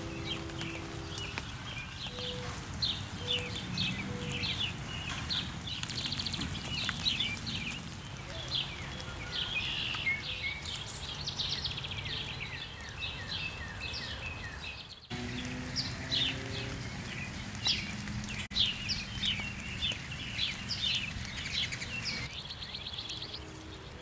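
Several songbirds singing and chirping, a dense chorus of quick high notes and trills, over a steady low outdoor rumble. The sound briefly cuts out and resumes about halfway through.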